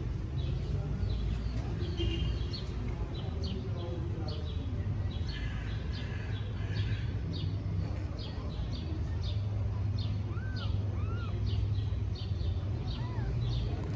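Small birds chirping rapidly and repeatedly over a steady low rumble of background noise, with a few short rising-and-falling calls about ten seconds in and again near the end.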